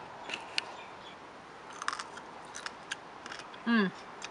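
Biting and chewing a raw cucamelon (Mexican sour gherkin): a string of sharp, crisp crunches from the firm-skinned fruit. Near the end comes a short hummed 'mm' from the taster.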